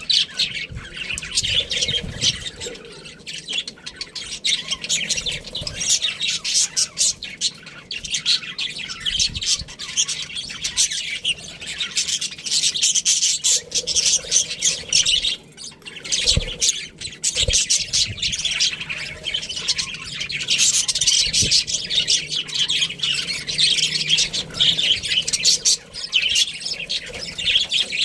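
Pet budgies chirping in a fast, near-continuous stream of high chirps, with a brief lull a little past the middle.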